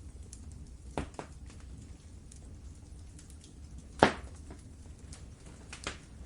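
Wood fire crackling in a fireplace: scattered sharp pops and faint ticks over a steady low rumble, with the loudest pop about four seconds in.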